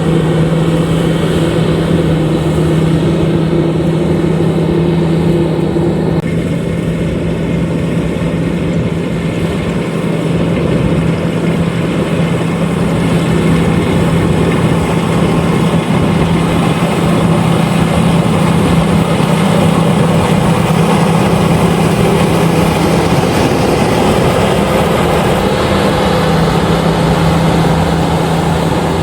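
LOVOL RG130EVO rice combine harvester running steadily: a loud, continuous machine drone with a strong low hum. A higher tone in it drops away about six seconds in.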